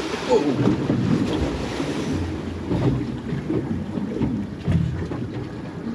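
Wind buffeting the microphone over sea water lapping and sloshing against a boat's hull, as a steady, uneven rumble and wash.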